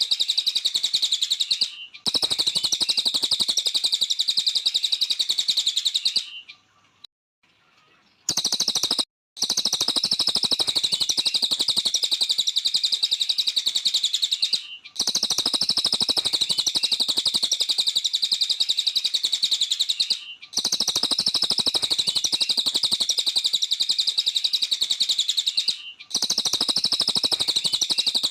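A cililin songbird singing long, very rapid chattering phrases, each lasting several seconds, broken by short pauses and one longer pause of about three seconds early on.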